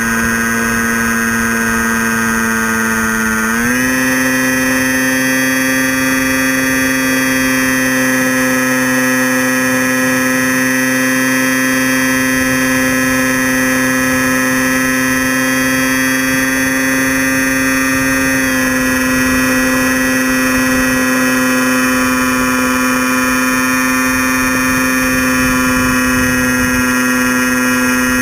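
Electric motor and propeller of a Storm Chaser RC plane running with a steady, high-pitched drone, heard from a camera mounted on the plane. The pitch steps up about three and a half seconds in and drops slightly a little past halfway.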